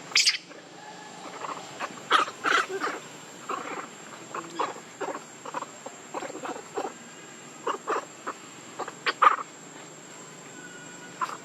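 Young monkeys giving many short, squeaky calls at irregular intervals, the loudest about nine seconds in.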